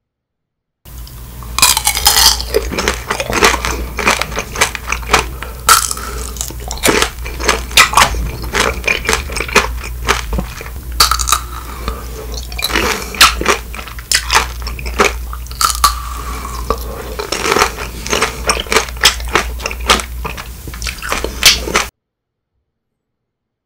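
Close-miked biting and chewing of Kyoho grape tanghulu: the hard sugar-candy shell cracks between the teeth over and over in dense, irregular crunches, with a steady low hum underneath. It starts about a second in and cuts off suddenly near the end.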